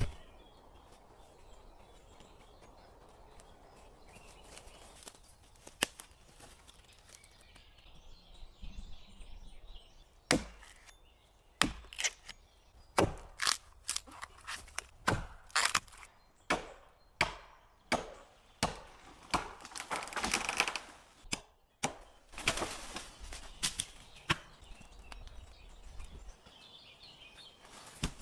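Wood being chopped: more than a dozen sharp strikes, irregularly spaced about half a second to a second apart, starting about a third of the way in and stopping a few seconds before the end.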